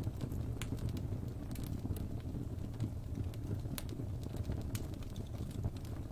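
Wood fire burning in a fireplace: a steady low rumble of flame with irregular sharp pops and crackles from the burning logs, a few each second.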